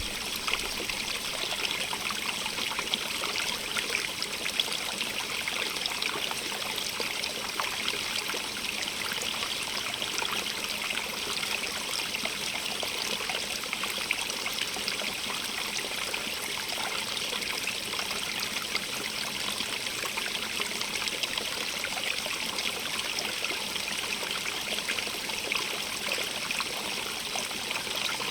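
Small stream of water running steadily over rocks, a continuous trickling and splashing with fine bright flickers, recorded in binaural stereo.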